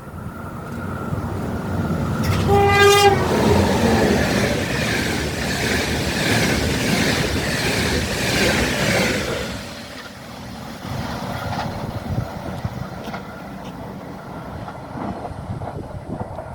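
A train passing close by, sounding one short horn blast about two and a half seconds in. It rushes past loudly for several seconds, then drops away suddenly to a quieter rolling rumble as it recedes.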